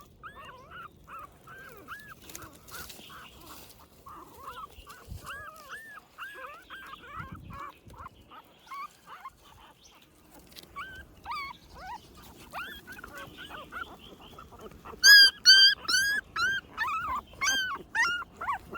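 Newborn puppies whining: a long run of short, high, arching cries, several a second, getting much louder and shriller in the last few seconds.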